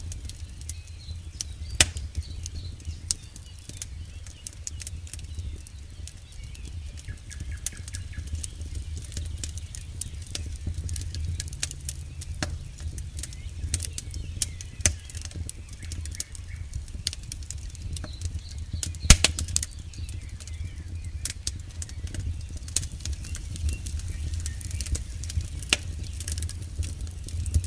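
Campfire burning: a steady low rumble with frequent sharp crackles and pops of the burning wood, the loudest pop about nineteen seconds in.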